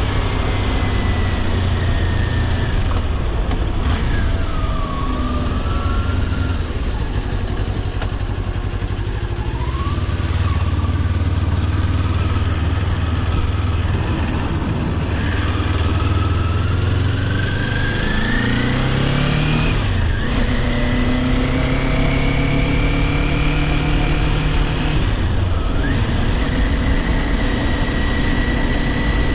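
Kawasaki Ninja 400 parallel-twin engine on the move, its pitch climbing as it revs and dropping sharply at gear changes several times, over steady wind rush.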